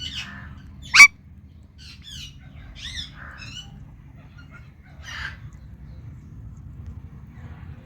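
Indian ringneck parakeet giving short squawks and chirps, with one very loud, sharp screech about a second in. The calls thin out after about five seconds, leaving a low steady background hum.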